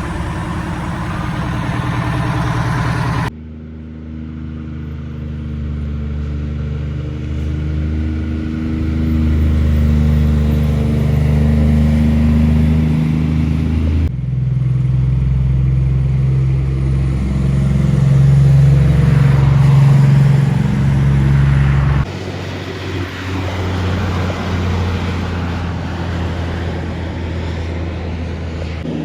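Kenworth cabover trucks' diesel engines running, in several short clips that each cut off suddenly, the loudest about two-thirds of the way through.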